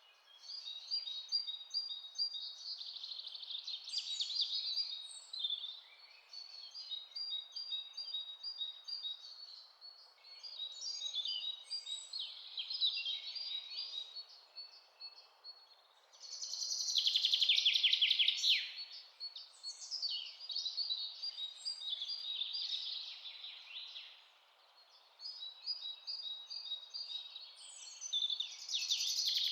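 Songbirds singing and chirping in a forest, with many overlapping high phrases and a loud rapid trill a little past the middle.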